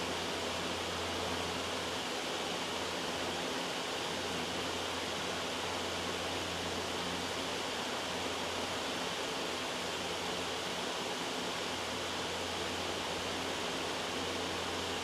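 Loud, steady white noise: an unbroken hiss spread evenly across low to high pitches, without change.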